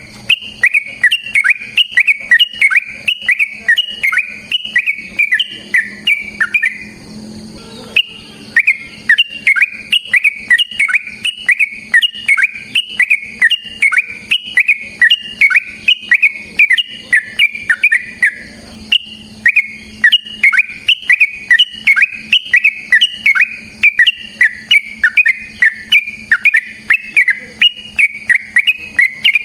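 Yellow-vented bulbul (trucukan) singing long unbroken runs of rapid, bubbly, whistled notes, about three a second, with two brief pauses between the runs.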